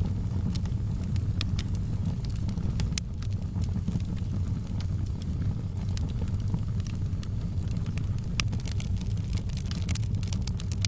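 Wood fire burning in a fireplace: a steady low rumble of the flames with frequent, irregular crackles and sharp pops.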